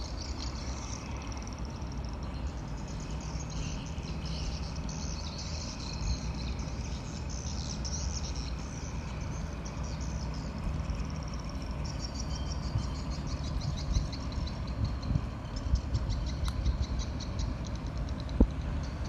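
Steady low drone of a tugboat's engine, with insects and birds chirping over it; about two-thirds of the way through, a rapid pulsing insect trill joins in.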